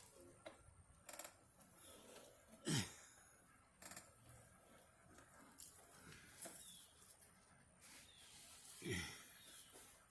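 Faint knocks, clicks and rubbing from a camera strapped onto moving equipment, with two short sounds that fall steeply in pitch, about three seconds in and again near the end.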